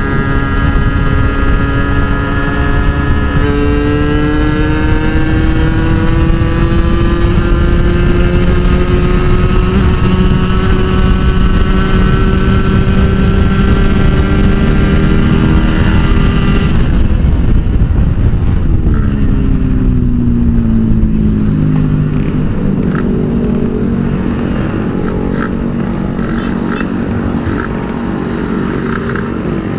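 Yamaha Force 1 (F1ZR) 110 cc two-stroke underbone engine held at high revs at speed, its pitch climbing slowly. About seventeen seconds in the throttle closes and the note falls away as the bike slows.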